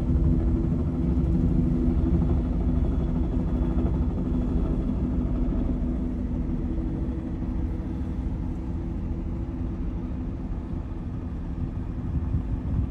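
Tour helicopter's turbine and rotors running, a steady low drone with a hum, easing slowly in level as it moves away.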